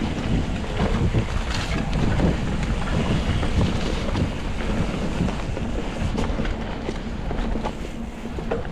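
Wind rumbling and buffeting over the camera microphone as a mountain bike is ridden down a wet, muddy trail, with frequent irregular knocks and rattles from the bike.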